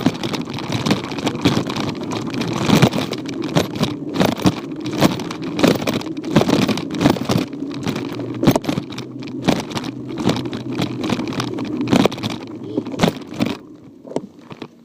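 A child's 20-inch Diamondback Cobra bicycle rolling along a trail, heard through a phone mounted on its handlebars: a steady tyre rumble with frequent knocks and rattles from the frame and mount jolting over bumps. The rattling thins out and the level falls near the end as the bike slows.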